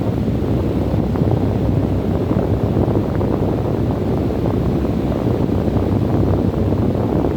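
Strong wind blowing steadily as a dense low rumble, buffeting the microphone, with a few faint ticks through it.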